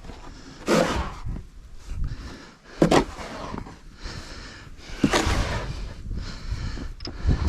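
Snow shovel scraping and scooping soft, deep snow, four strokes about two seconds apart, over a low rumble of wind on the microphone.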